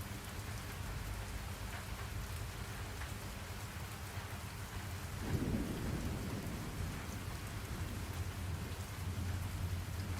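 Steady rain falling, with a low roll of thunder breaking in about halfway through and rumbling on.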